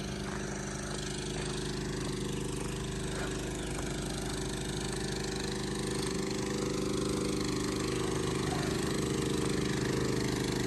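A vehicle engine running steadily, its level rising slightly toward the end.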